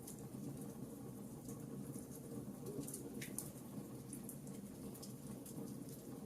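Campfire burning: a steady low rush of flames with irregular sharp crackles and pops.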